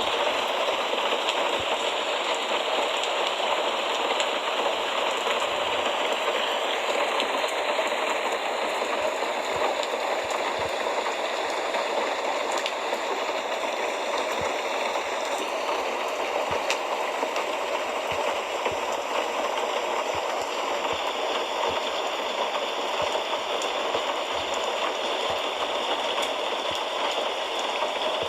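Steady rain falling: an even, unbroken hiss with scattered faint ticks of drops.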